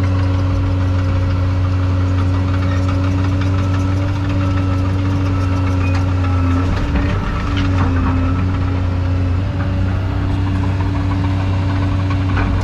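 Excavator's diesel engine running steadily, its tone wavering briefly about seven seconds in, with a faint higher whine over it.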